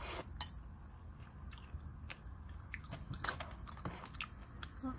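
Close-up chewing of instant cup-ramen noodles, with scattered light clicks as chopsticks work in the cup.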